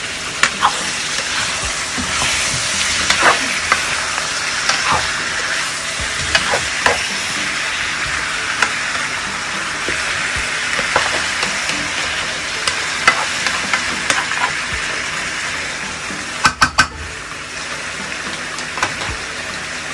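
Chicken pieces, garlic and onions sizzling steadily in hot olive oil in a nonstick frying pan while they brown, with the utensil stirring and scraping through them. A quick run of sharp clicks comes about three-quarters of the way through.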